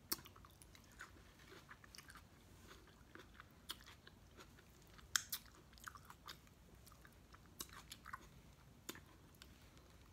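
Faint chewing and mouth sounds of someone eating a chili cheese coney dog: soft, irregular smacks and clicks scattered throughout.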